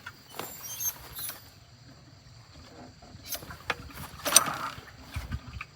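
Scattered clicks and rattles, then a louder scraping pull about four and a half seconds in and a brief low thud near the end: pull-start attempts on a 212 cc minibike engine that does not catch.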